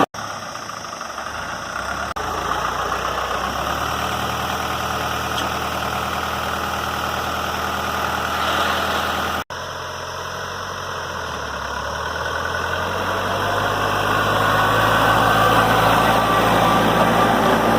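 New Holland tractor's diesel engine running steadily, broken by a sudden cut about nine and a half seconds in; afterwards the engine note rises and grows louder.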